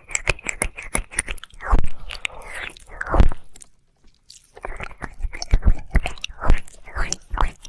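Close-miked ASMR mouth sounds: wet licking, smacking and clicking of tongue and lips in quick, irregular strokes, with a pause of about a second near the middle.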